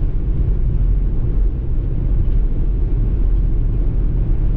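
Steady low rumble of a car driving along a road: engine and road noise, with no distinct knocks or bangs.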